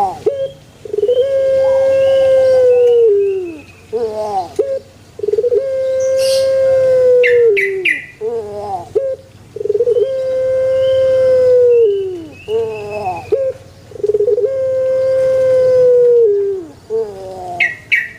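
Puter pelung, the domestic Barbary dove (Streptopelia risoria), cooing: four phrases about four seconds apart, each a few short notes leading into one long, steady note that falls away at its end.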